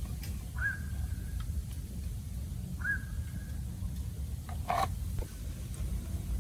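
A bird calling: a short, steady note with a quick rise at the start, heard twice about two seconds apart over a steady low rumble. A single sharp knock comes near the end.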